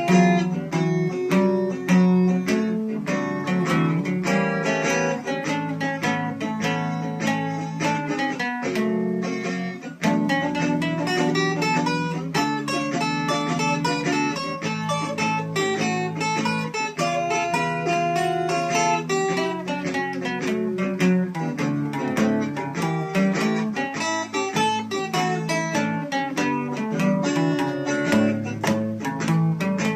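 Acoustic guitar playing an instrumental passage, picked single-note lines over strummed chords, with a brief break about nine seconds in.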